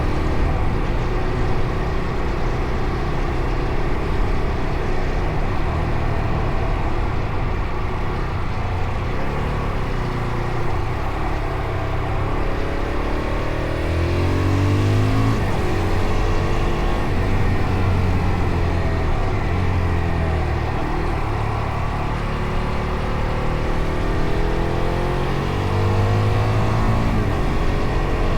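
Fantic Caballero Rally 500's single-cylinder four-stroke engine running under way, its note rising and falling repeatedly as the bike accelerates, shifts and eases off.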